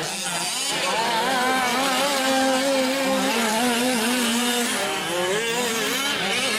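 Several 1/5-scale off-road RC trucks' two-stroke gas engines revving as they race, their pitches rising and falling over one another, one held steady for a couple of seconds in the middle.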